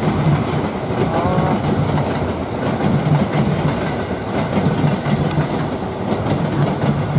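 Electric commuter train (KRL EMU) running past on the tracks: a steady rumble of its wheels on the rails.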